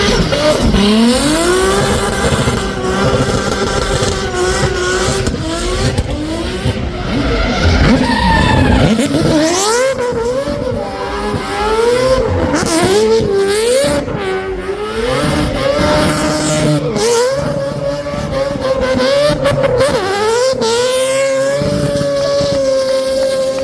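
Racing car engine under hard throttle, its pitch repeatedly climbing and dropping through gear changes and throttle lifts, then held high near the end. Tyre squeal mixes in.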